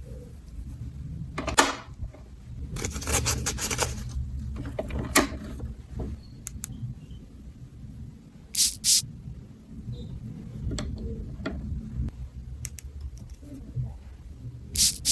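Small plastic toy pieces being handled: scattered clicks and taps, a stretch of rustling about three seconds in, and two sharp clicks near the middle.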